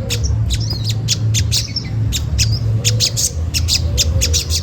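Olive-backed sunbird giving sharp 'cret cret' chip calls, about four or five a second in uneven runs, over a steady low hum.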